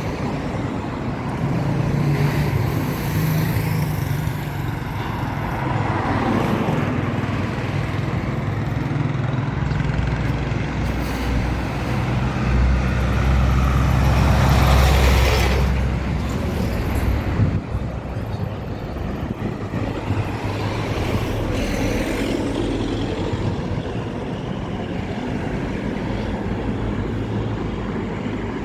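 Road traffic: motor vehicles running past, with one passing close about halfway through, its rumble swelling and then fading.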